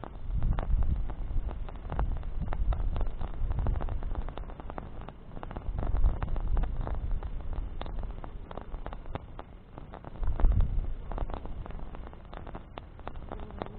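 Campfire of burning branches crackling with many irregular sharp pops over a low rumble that swells and fades every few seconds.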